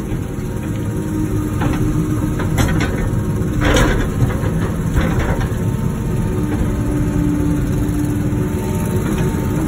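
Wacker Neuson ET 145 excavator's engine running steadily, with a held hum and a few knocks; a louder scrape or crunch comes about four seconds in.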